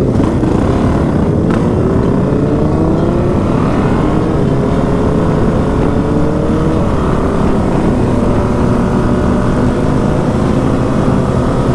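Dirt bike engine under way, its pitch rising over the first few seconds as it accelerates and then holding fairly steady as it cruises.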